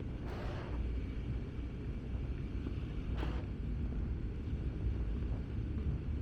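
Outdoor street ambience: a steady low rumble of wind on the microphone and traffic, with two brief hissing swishes, one just under a second in and one about three seconds in.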